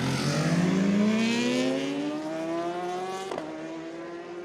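A superbike launching down the drag strip: the engine's pitch climbs steadily under hard acceleration, then there is a quick gear change a little over three seconds in, and it runs on, fading as it pulls away.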